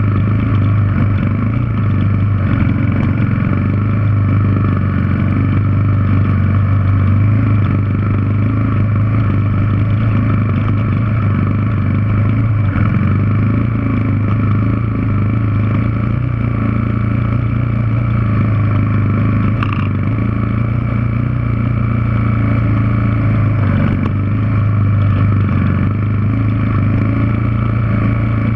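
Yamaha TW200's single-cylinder four-stroke engine running at a steady pitch as the dirt bike climbs a rocky trail, with one short clack about two-thirds of the way through.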